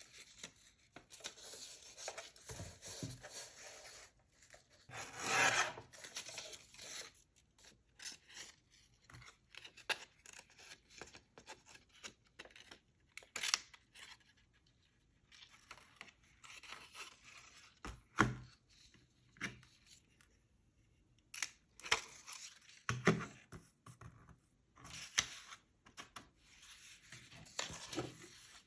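Paper being handled and worked by hand: irregular bursts of rustling, scraping and light taps, with a longer, louder rustle about five seconds in.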